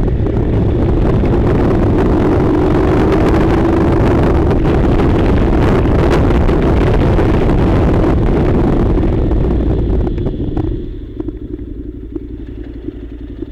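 Honda NC700's parallel-twin engine running while the motorcycle is ridden, then dropping to a quieter, steady idle about ten seconds in.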